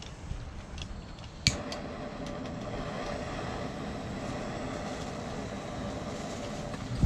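A few light clinks of stainless-steel fire pit parts and one sharp click about a second and a half in, then a steady mechanical hum with a faint held tone.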